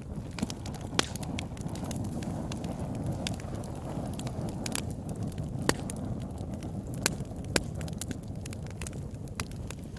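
Campfire burning: a steady low rumble of flames with sharp wood crackles and pops. One loud pop comes about a second in, and several more fall in the second half.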